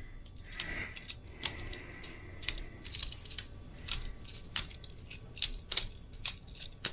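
Boker Plus balisong butterfly knife being flipped by a beginner: an irregular string of sharp clicks and clacks, about two or three a second, as the handles and blade swing open and shut and knock together.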